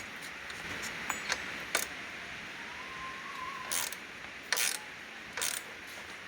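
Ratchet wrench tightening the acorn nuts on a Honda Monkey's rear shock tops: a few sharp metal clicks, then three short ratcheting strokes in the second half.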